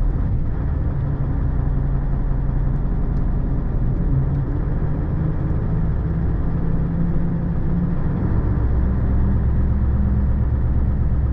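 Bus engine running, heard from inside the bus cabin as a steady low drone; its note changes about eight seconds in.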